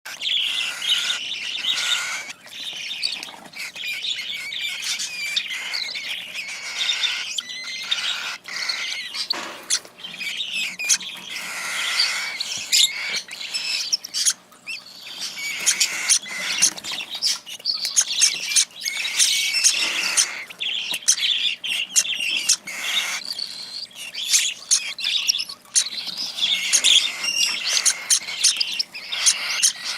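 Cockatiel chicks giving rapid, insistent begging calls, one after another, while being hand-fed formula.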